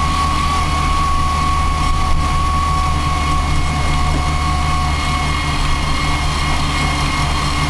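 Land Rover Series engine and drivetrain heard from inside the cab while driving at a steady pace: a constant low drone with a steady high-pitched whine over it.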